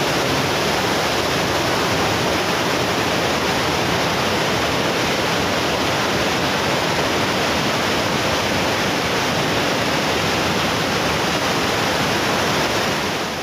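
Waterfall: a steady, loud rush of falling water with no letup.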